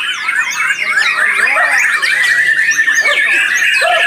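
Several caged white-rumped shamas (murai batu) singing at once, a dense, loud mix of overlapping whistles, trills and rapid rising and falling notes, with one long steady whistle held through the second half.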